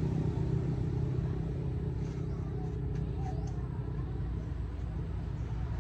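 Motorcycle engine running steadily with a low rumble while riding.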